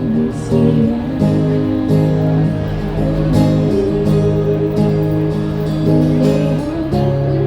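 Live band music in an instrumental passage: an acoustic guitar strumming sustained chords about once a second.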